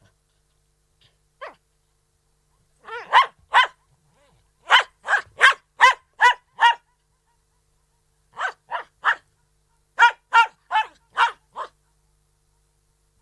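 Poodle barking in short barks: a faint single bark, then runs of three, six, three and five barks, each about a third of a second apart.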